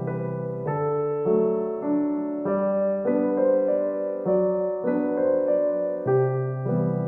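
Background music: gentle keyboard or electric piano playing soft chords over a bass line.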